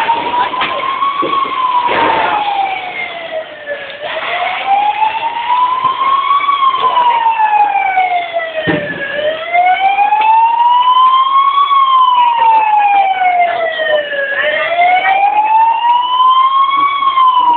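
Emergency vehicle siren wailing loudly in slow sweeps, climbing and falling in pitch about every five seconds, with a few brief knocks alongside.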